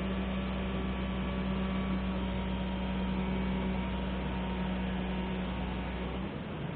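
Hoist motor humming steadily as it lifts an excavator engine, then stopping about six seconds in.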